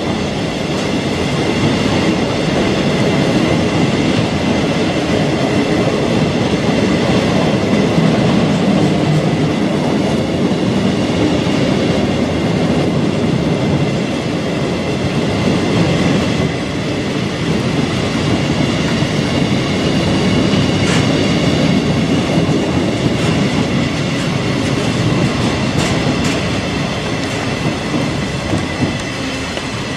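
Empty container flat wagons of a long freight train rolling past steadily, the wheels rumbling and clacking over the rails, with a thin high whine running through.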